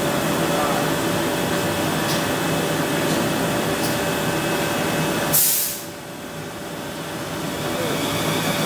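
Electric passenger train standing at the platform, its onboard equipment running with a steady hum and whoosh; about five seconds in, a short, sharp hiss of air bursts out from the train.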